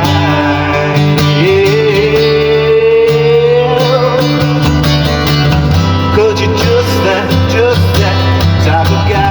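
Acoustic guitar strummed in a country-style song, with a wavering melody line held over the chords and no sung words.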